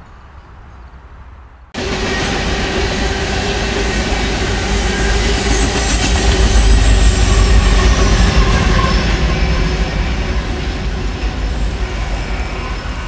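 Freight cars rolling past close by, steel wheels running on the rail with a few thin squealing tones. It starts abruptly less than two seconds in, after a faint low rumble, and is loudest midway before easing off.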